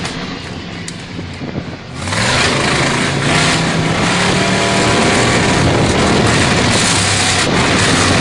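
Truck engine accelerating in first gear: it gets much louder about two seconds in, and its pitch climbs as it revs up.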